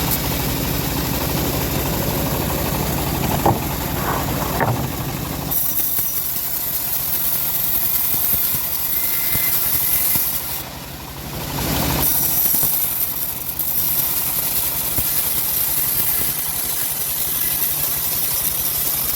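Engine of a homemade bandsaw sawmill running steadily, its sound shifting about five seconds in and again about twelve seconds in.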